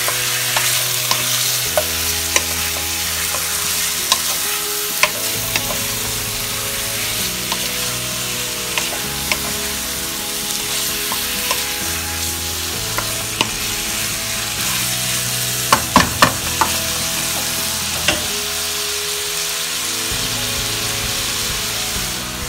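Chicken pieces sizzling as they brown in hot oil in a pan with sautéed garlic, ginger and onion, with a utensil stirring and clicking against the pan now and then. There is a quick run of clicks about two-thirds of the way through.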